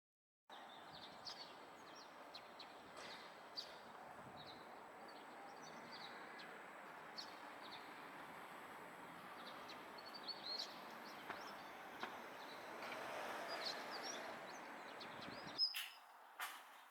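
Small wild birds chirping in many short, high calls over a steady outdoor background noise. There are a couple of sharp clicks near the end.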